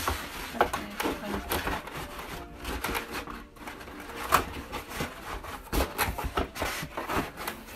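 Irregular clicks, knocks and rustles of a laptop box and its packaging being handled and opened.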